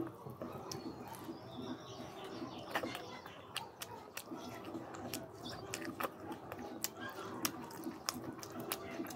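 Close-up chewing of saucy fish and rice, with wet mouth smacks and many sharp clicks scattered throughout.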